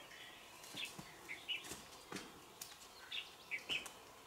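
Small birds chirping in short bursts of quick high notes, one group about a second in and another past three seconds, with faint taps and rustles of rope being handled and hands on rock between them.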